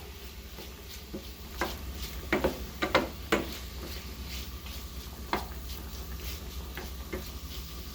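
Pots, pans and utensils clanking and knocking a few times on a stovetop, most of it in the first half, over a steady low hum.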